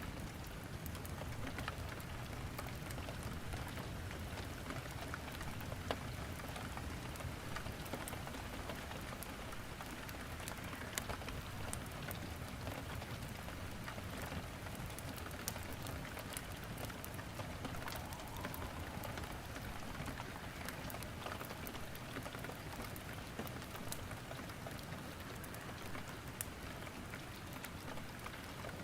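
Steady rain falling, with scattered sharp crackles from firewood burning in a fireplace.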